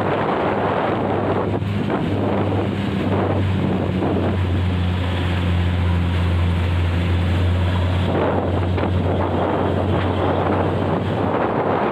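Heavy diesel road vehicle, a bus or truck, with a steady low engine drone that swells in the middle and eases off near the end, over road noise and wind buffeting the microphone.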